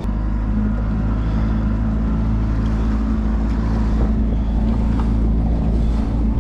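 Outboard motor on a jon boat running at a steady speed, a loud, even engine note with no change in pitch.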